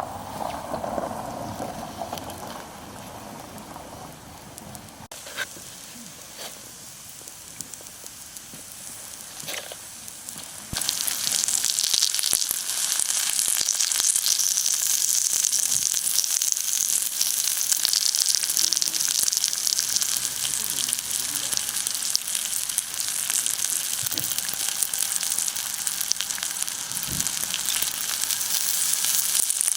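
Steak sizzling on hot lava stones over a campfire grill. The sizzle starts suddenly about eleven seconds in, after a quieter stretch with a few small clicks, and stays loud and steady.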